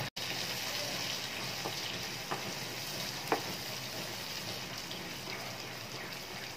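Onion-tomato masala sizzling in oil in a frying pan as boiled chickpeas are stirred into it with a wooden spatula, a steady hiss with a few sharp clicks, the loudest about three seconds in.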